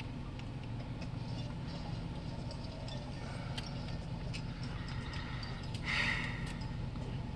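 Car engine idling, heard inside the cabin as a steady low hum, with a few faint clicks and a brief hiss about six seconds in.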